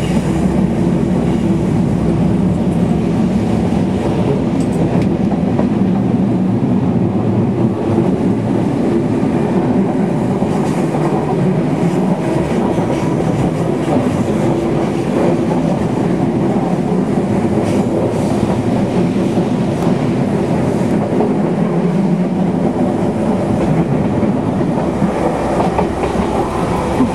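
Class 313 electric multiple unit running along the line, heard from inside the carriage: a steady rumble of wheels on track with occasional clicks from rail joints.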